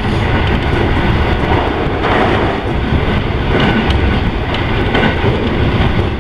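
Moving train heard from inside the carriage: a steady rumble of wheels running on the rails, with a few faint clicks from the track.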